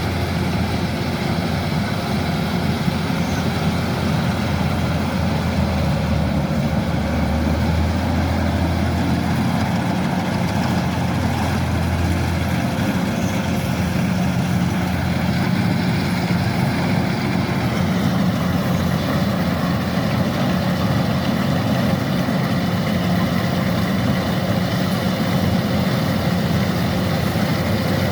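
Kubota DC-105X combine harvester's diesel engine running steadily.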